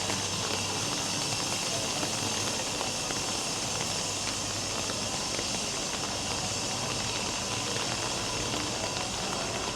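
Rain falling, a steady hiss with faint scattered drop ticks.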